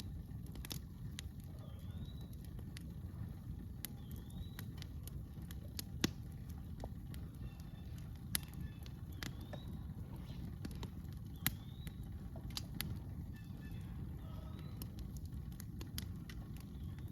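Campfire crackling, with scattered sharp pops, three of them louder, over a steady low rumble. A bird repeats a short rising-then-falling chirp every second or so.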